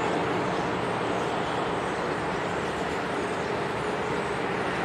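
Electric multiple-unit commuter train running in toward the platform, a steady rumble of wheels and traction. A faint steady tone comes in near the end.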